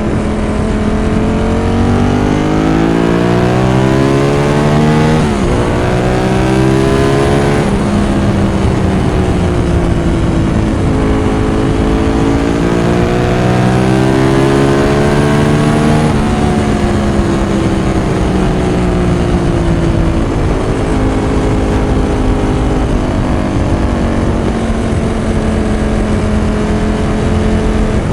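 Ducati 916's 90-degree V-twin engine pulling hard through the gears. The note climbs in pitch and drops at each upshift, three times in the first half, then settles to a steadier, slowly falling note.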